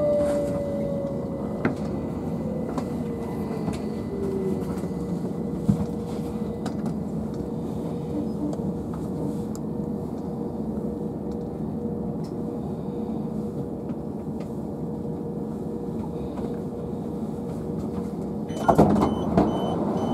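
Southern Class 377 electric train standing at a platform, its interior running with a steady hum and rumble after a falling whine in the first few seconds as it comes to a halt. Near the end a clunk sounds and a steady series of high door-warning beeps starts.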